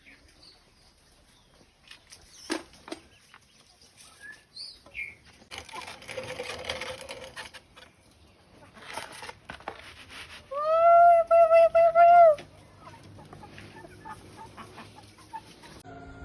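Chickens in a yard: scattered clucks and rustling flaps of wings, then a loud rooster crow lasting about two seconds, starting about ten and a half seconds in.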